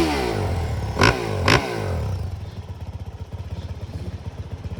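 Motocross dirt bike engines revving hard, pitch rising and falling through the gears, with a few sharp cracks in the first second and a half. After about two seconds the engine sound drops away to a quieter, low, rough putter.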